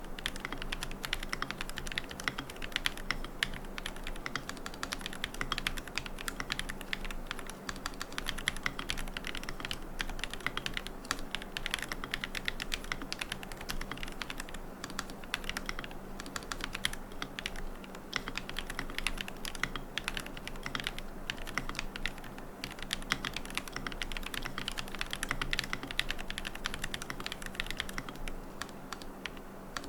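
Fast, continuous typing on a mechanical keyboard with Gateron Moon Landing switches, a carbon plate, no foam and MilkyWay Poker keycaps: a dense, steady stream of keystroke clacks without a pause.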